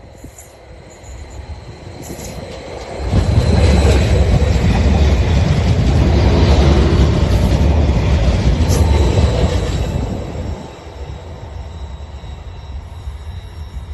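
A train passing close by. Its sound builds, jumps sharply about three seconds in, stays loud with heavy low noise for about seven seconds, then falls away.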